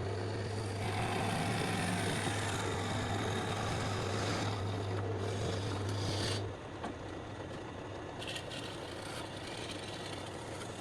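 Electric woodworking machine running with a steady motor hum while wood is worked with a rough, rasping noise. The hum stops about six and a half seconds in, and the rasping goes on more quietly.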